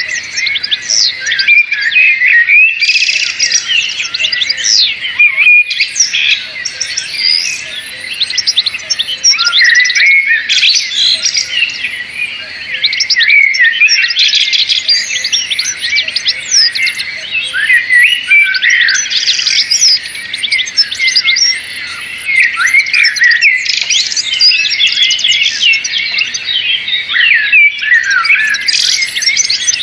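Small birds chirping and calling, many quick high calls overlapping in a continuous chatter.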